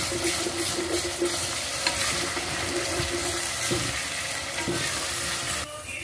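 Onions and paste frying in hot oil in a metal pot, sizzling steadily while a wooden spatula stirs and scrapes through them in repeated strokes. The sizzle drops away sharply near the end.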